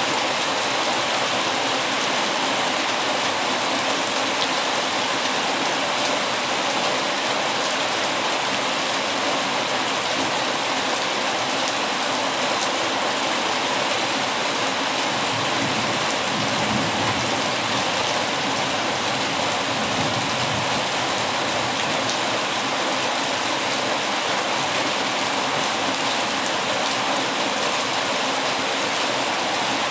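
Heavy rain falling in a steady, unbroken downpour. A low rumble swells midway through and then fades back.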